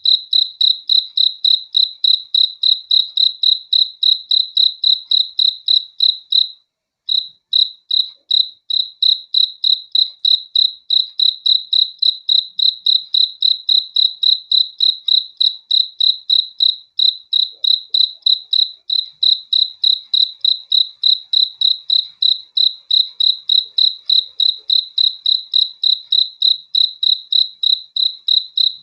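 A cricket chirping in a steady, even rhythm, about three high-pitched chirps a second, with one brief break about seven seconds in.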